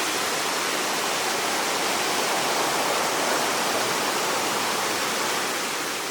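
Steady rush of a river's rapids and small falls running high and fast after rain, water pouring over rocks.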